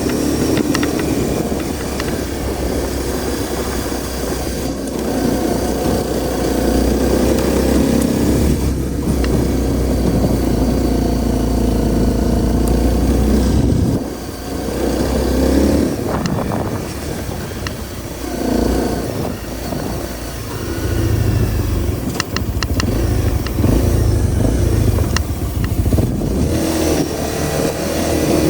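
Honda CRF250L's single-cylinder four-stroke engine running under way, its pitch rising and falling with the throttle. The sound drops briefly about halfway through as the throttle is closed, then picks up again.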